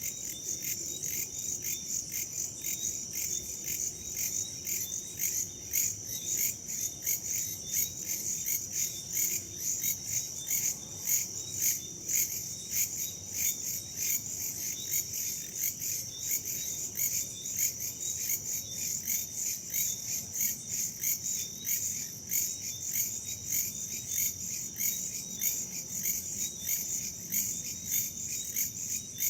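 Crickets and other insects chirping in a steady chorus: dense, rapid, high-pitched pulsing, with fainter chirps underneath.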